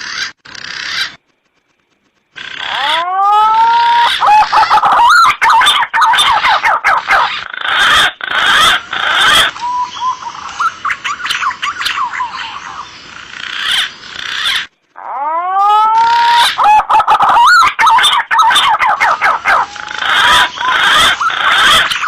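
Green pigeon (punai) calls from an edited hunting lure recording: loud whistled, wavering notes with rising and falling glides, in a sequence that stops abruptly about two-thirds through and starts over. Used to call in green pigeons.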